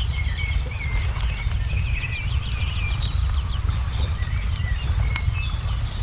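Small birds chirping and twittering over the sharp pops and crackles of a burning wood fire, with a steady low rumble underneath.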